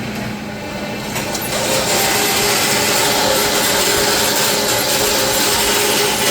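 Power drill boring holes in a metal beam for 1.5-inch inserts; the steady cutting noise starts about a second and a half in.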